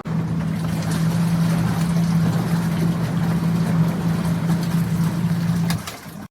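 Twin-tub portable washing machine's electric motor running with a steady hum, which drops away shortly before the end.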